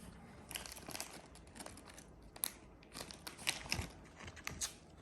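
Irregular crinkling and rustling with small clicks, as of something being handled by hand, in several short clusters.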